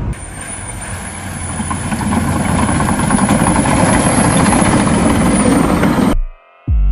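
Vehicle and road noise with a steady high whine, growing louder, then cut off abruptly about six seconds in.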